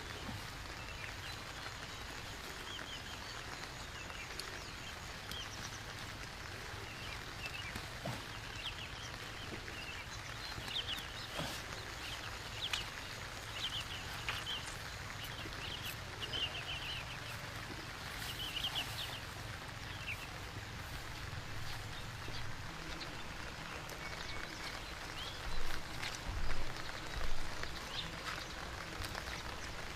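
Steady rain falling, with clusters of short high chirping calls through the first two-thirds. Three low thumps come near the end.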